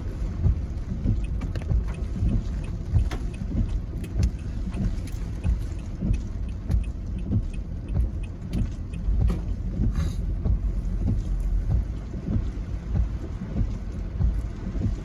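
Gusty wind from an approaching typhoon buffeting the microphone in a continuous low rumble, with scattered sharp taps of raindrops.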